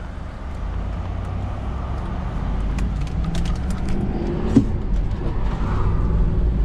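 Road vehicle driving: a low, steady engine and road rumble that slowly grows louder, with light rattles and a single knock about four and a half seconds in.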